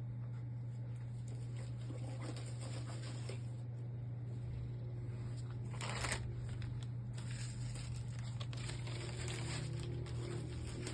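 Packaging rustling and crinkling as it is handled, with a brief louder rustle about six seconds in, over a steady low hum.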